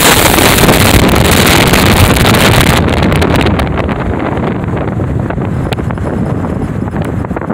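Strong wind buffeting the microphone: a loud roaring rush that loses its high hiss about three seconds in and goes on as a lower, gusty rumble.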